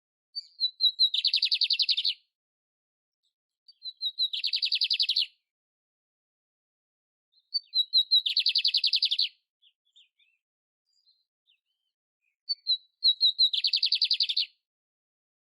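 Canary singing: four short song phrases, each opening with a few quick separate notes that run into a rapid high trill of about a second, spaced about three to five seconds apart.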